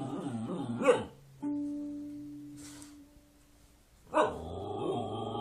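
Music with a dog vocalising over it: a held note that fades away, then a new passage starting sharply about four seconds in.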